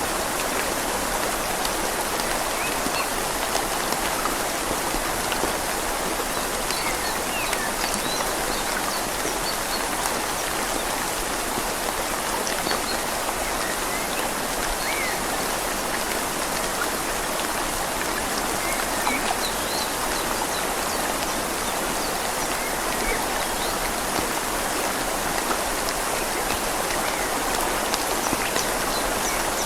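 Steady rain falling on leaves over a gently flowing river: an even, continuous hiss of water.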